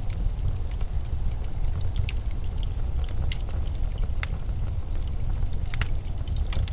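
Blizzard wind as a steady low rumble, with scattered sharp crackles and ticks on top.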